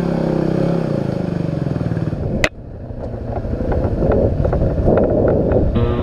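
Small single-cylinder dual-sport motorcycle engine running, its pitch falling as the bike slows for the first couple of seconds. A sharp click about halfway through, after which engine and riding noise build up again.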